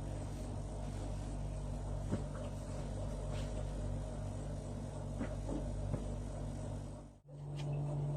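A steady low mechanical hum, with a few faint clicks and light knocks over it; the hum cuts out briefly near the end and comes back.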